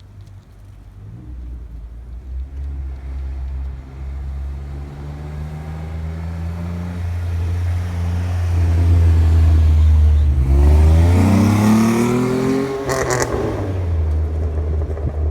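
2010 Jeep Wrangler JK's 3.8-litre V6 running through a Gibson stainless split exhaust, idling and then building slowly in loudness. About ten seconds in it is revved hard, the pitch climbing steeply for about two seconds, then it drops back to a low idle with a short crackle.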